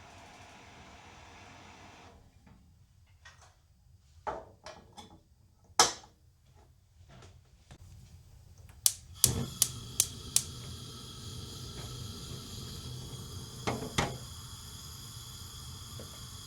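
Scattered sharp clicks and knocks: a loud one about six seconds in, a quick run of five around nine to ten seconds, and two more near fourteen seconds, over a faint steady hum.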